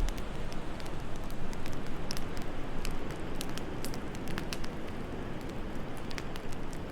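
Wood fire crackling in a fireplace, with scattered sharp pops at irregular moments over a steady low rush of wind.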